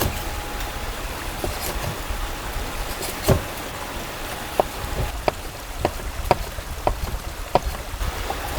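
Steady rain with irregular heavier drops tapping on a surface, about one or two a second, and one louder tap about three seconds in.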